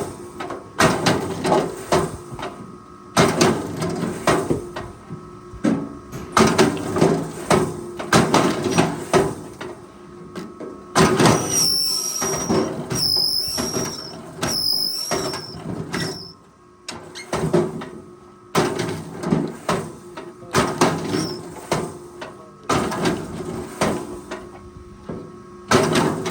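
Forestry machinery at work: a steady engine hum under repeated bursts of knocking and scraping. Three short high squeaks come about halfway through.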